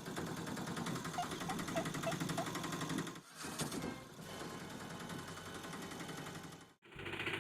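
A small motor running with a fast, even rattle, cut off abruptly twice as the clips change.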